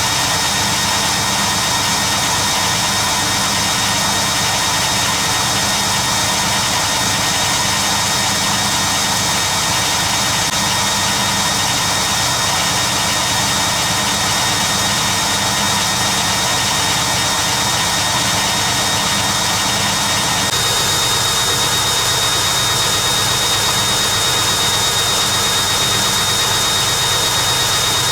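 Hoover Keymatic A3112 washing machine on its 500 rpm interim spin: the drum and motor spin steadily, with a thin high whine. About twenty seconds in, the sound shifts a little and the whine grows stronger.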